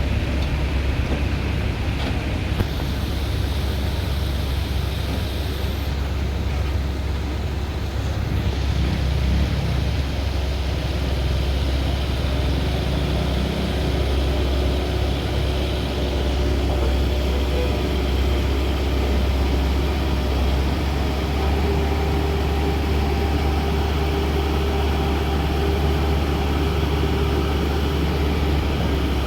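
Waterfall's steady rush of falling water, with a heavy low rumble underneath.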